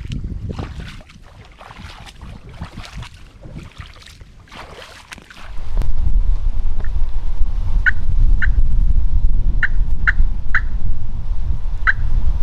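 Crackling footsteps through brush for the first few seconds, then a sudden loud low rumble. Over the rumble come about seven short, high turkey calls spread through the second half.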